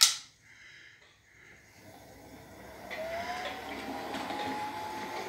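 A sharp click, then about three seconds in a Gauge 0 model locomotive's electric motor starts to whine, rising in pitch as it speeds up and then holding a steady whine as it runs along the track.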